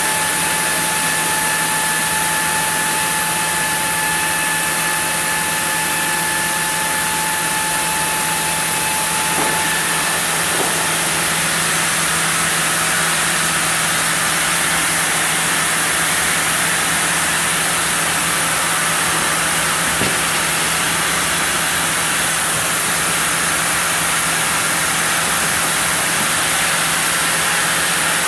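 Sawmill saw running and cutting through a block of zelkova wood, a loud, steady noise. A steady high tone in it stops about a third of the way in.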